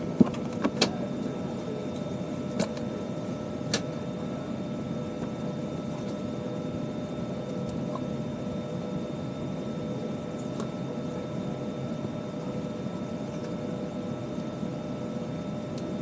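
Steady hum and hiss of an Airbus A320's cabin air system with the aircraft parked at the gate, holding a few faint steady tones. A few sharp clicks come in the first four seconds.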